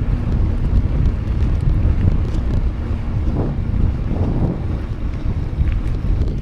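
Wind buffeting the microphone of a camera on a moving bicycle, a steady low rumble.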